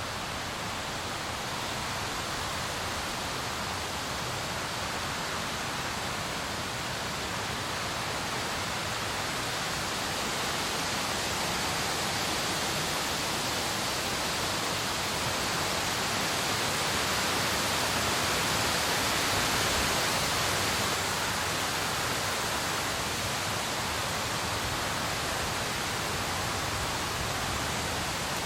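Heavy rain falling: a steady, even rushing hiss that swells slightly about two-thirds of the way through.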